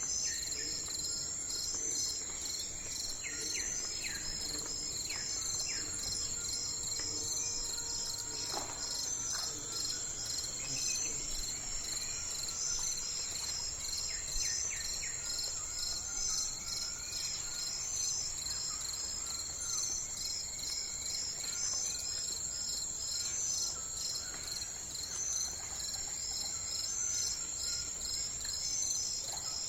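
A steady, evenly pulsing high chorus of insects, with a few short bird chirps and calls scattered through it.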